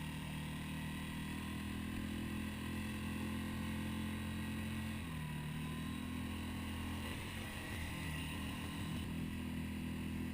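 Boat engine running steadily with a low, even hum that shifts slightly in pitch about five seconds in.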